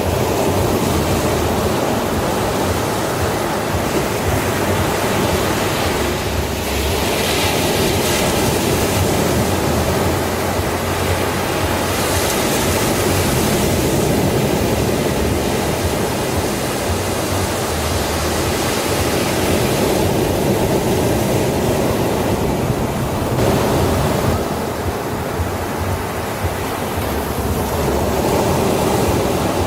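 Sea waves breaking and washing on a beach: a continuous rush of surf that swells and eases every few seconds.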